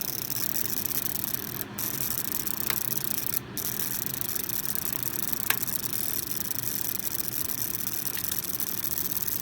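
Fan-forced ceramic space heater running, a steady rush of fan noise. Two light clicks come about a third and halfway through.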